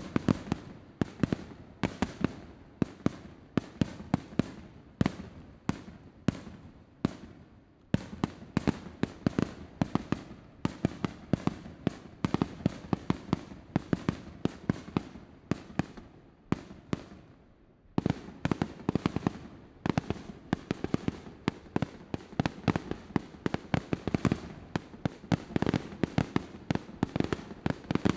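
Fireworks display going off in a rapid, dense barrage of bangs and crackling reports, easing for a moment about seven seconds in and again around sixteen seconds in before picking up again.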